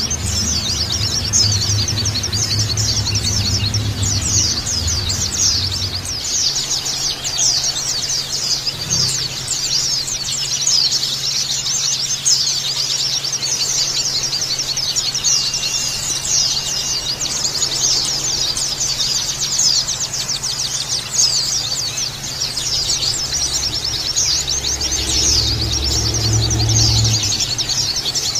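A flock of white-eyes (pleci) chattering together: a dense, unbroken stream of rapid high chirps. A low rumble sits underneath at the start and again near the end.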